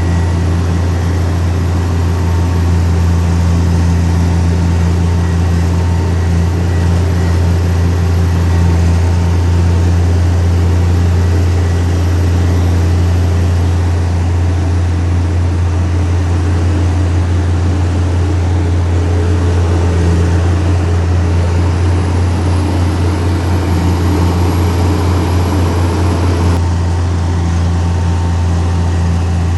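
Heavy diesel engine of earthmoving machinery running steadily under load, a deep continuous drone with only small shifts in its overtones.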